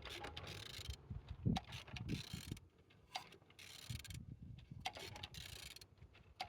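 A removed G4LA four-cylinder petrol engine being turned over by hand, giving irregular short bursts of mechanical clicking and rubbing; it turns freely, a sign it is not seized.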